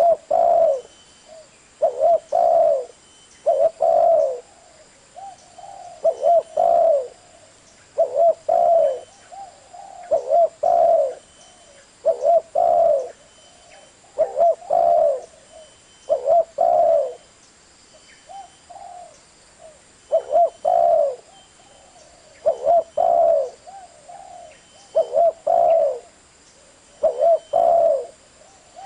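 Spotted dove cooing: short phrases of two or three low coos, repeated about every two seconds.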